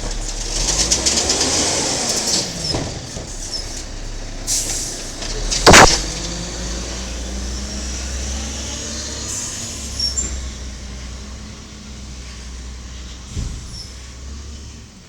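Diesel engine of a 1995 Peterbilt 310 garbage truck with an Amrep Octo automated side-loader, running with a steady low hum. There is hissing with gliding mechanical whines in the first few seconds, and one loud bang about six seconds in. The truck sound grows fainter toward the end.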